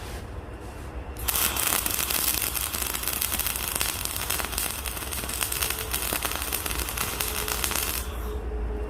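Electric arc welding on steel plate: a steady, dense crackle of the arc over a low welder hum, starting about a second in and stopping shortly before the end.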